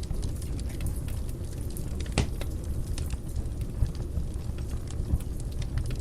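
Fire burning in a fireplace: a steady low rumble of flames with frequent small crackles and pops, and one louder pop about two seconds in.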